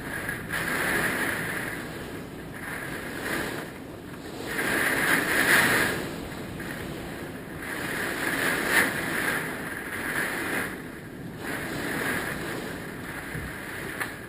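Hurricane wind gusting, a rushing roar that swells and eases in surges, with its strongest gusts about five and nine seconds in, buffeting the microphone.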